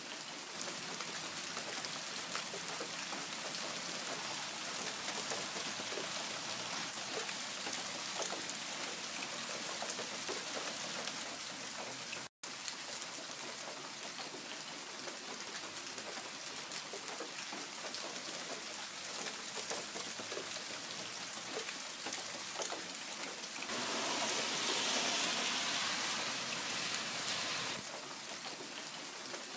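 Steady rain falling, an even hiss full of fine drop ticks. It cuts out for an instant about twelve seconds in, and grows louder and hissier for about four seconds near the end.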